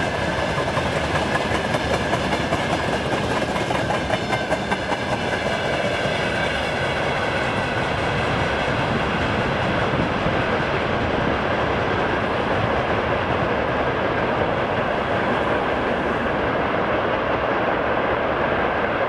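Freight train of open wagons rolling past and away, wheels clicking over the rail joints during the first few seconds, then a steady rumble as the high end of the sound fades.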